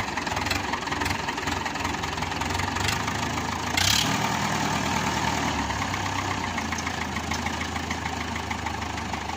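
Tractor engine idling steadily, with a brief louder hiss about four seconds in.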